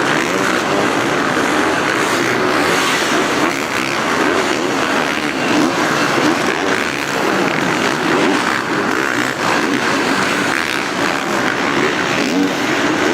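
Supercross dirt bikes running on the track in practice, engines revving and rising and falling in a continuous, overlapping din.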